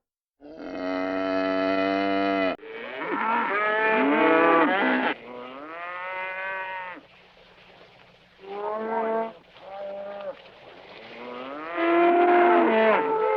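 A string of cartoon sound-effect animal calls, mooing like a cow: a flat, steady call that cuts off abruptly, then several calls that slide up and down in pitch.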